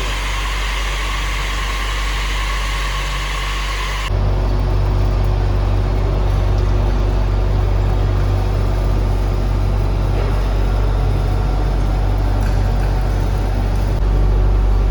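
Heavy industrial machinery running with a steady low drone. It changes abruptly to a deeper, louder rumble about four seconds in.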